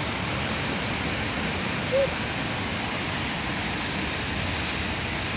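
Steady rain falling, an even hiss, with one brief short call about two seconds in.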